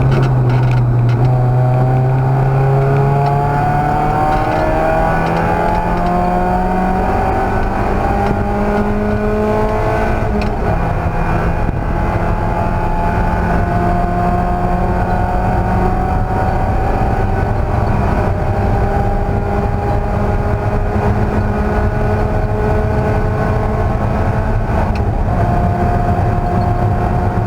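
Race car engine under power, its pitch climbing for about ten seconds, dropping at a gear change about ten seconds in, then holding a steady, slowly rising pitch, over constant wind and road noise.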